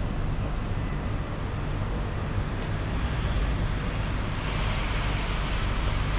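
Steady rushing outdoor noise, chiefly wind on the camera microphone with a low rumble, joined by a louder hiss about two-thirds of the way in.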